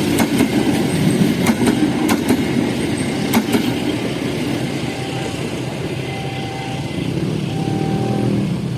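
Train rolling past: a steady heavy rumble with scattered sharp clacks of the wheels over rail joints.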